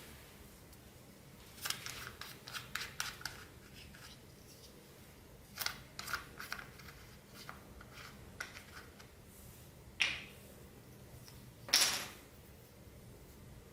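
Clear slime mixed with plastic beads being squeezed and pressed by hand: quick runs of small clicks and crackles about two and six seconds in, then two louder, longer pops about ten and twelve seconds in.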